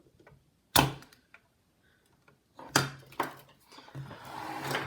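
A few sharp clicks and knocks of soldering tools being handled on a work surface. The loudest comes about a second in, two more follow near the middle, and a rustling handling noise comes near the end.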